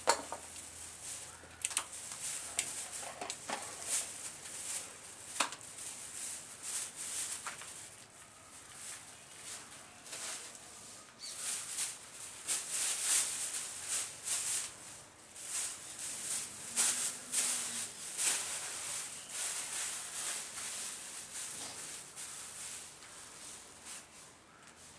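Hand tools and small metal engine parts being handled: irregular clicks, taps and scraping, busier about halfway through.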